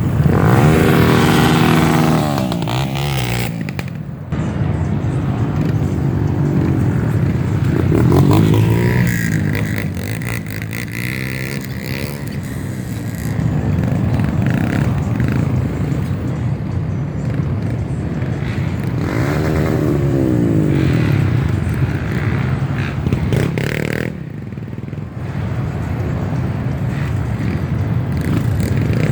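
Trail motorcycle engines revving, their pitch rising and falling again and again as the throttle is opened and closed.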